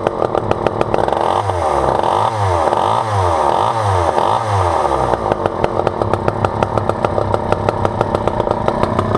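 Poulan 2000 two-stroke chainsaw idling, then revved about five times in quick rise-and-fall blips, then back to an even idle. The saw starts and runs after its case had filled with water.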